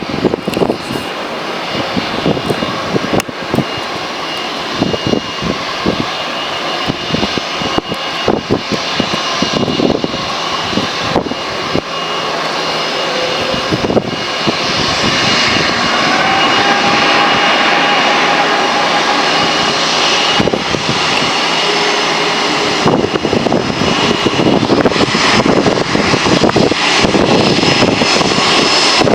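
Boeing 737-800's turbofan engines running as the airliner taxis: a steady jet rush with a high fan whine, growing louder about halfway through.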